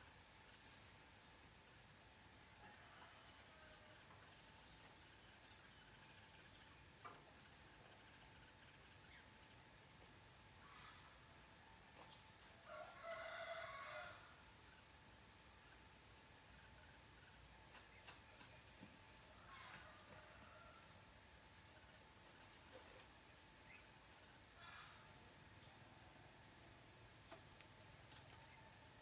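Crickets chirping in a steady high pulsing trill, about five pulses a second, that pauses briefly three times. A bird calls once, longer and louder, about halfway through, with a few faint short bird chirps around it.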